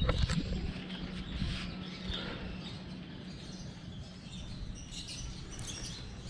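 Outdoor ambience: birds chirping here and there over a steady low hum, with a loud knock at the very start.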